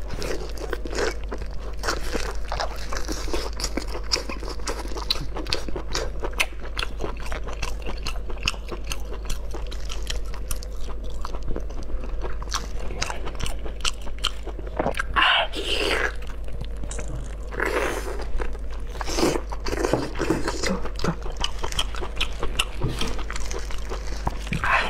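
Close-miked biting and chewing of braised pork large intestine: a dense run of small wet clicks from the mouth, with a few louder moist sounds a little past the middle.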